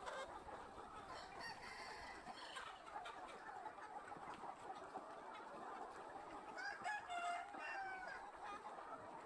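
A large flock of chickens clucking and chattering faintly and steadily, with a few clearer individual calls about seven seconds in.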